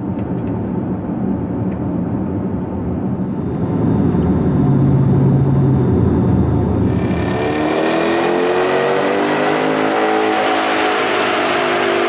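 6.4L Hemi V8 running through a Flowmaster American Thunder stainless cat-back exhaust with Super 44 mufflers: a deep, loud rumble that grows louder about four seconds in. About seven seconds in, a hiss joins it and the engine note climbs and then falls in pitch.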